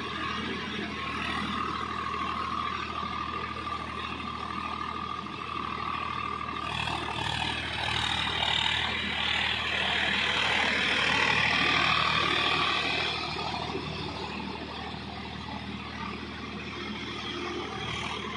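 Swaraj tractor's diesel engine running steadily, swelling louder for a few seconds in the middle before settling back.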